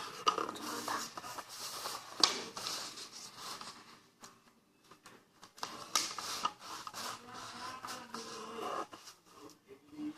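A sheet of paper rustling and scraping in irregular strokes as it is folded and creased into a paper jet plane, quieter for a second or so in the middle.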